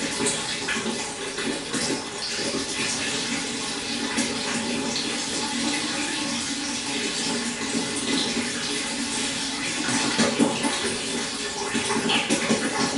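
Pond water running and splashing steadily, with many small splashes and drips throughout.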